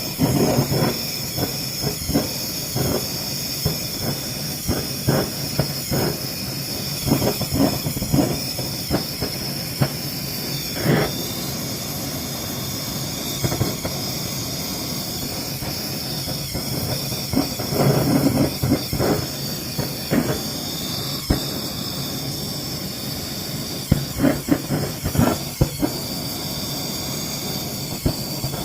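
Propane blowtorch fitted with a Searzall searing attachment, running with a steady hiss, over irregular crackling pops as the lasagna's top sears.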